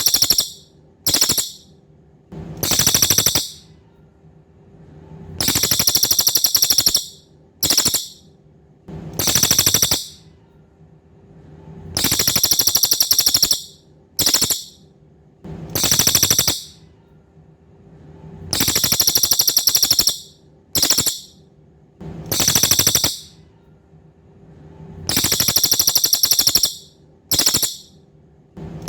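Cililin songbird singing a loud, rapid buzzy trill in a repeating phrase: a long burst, a short one, then another long one, the phrase coming back about every six and a half seconds. A faint steady hum runs underneath.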